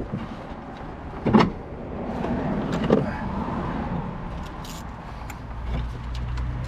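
Metal clinks, knocks and ticks of tools and parts being handled during work on the car, with one sharper knock about a second and a half in and a quick run of ticks later. A low steady hum comes up near the end.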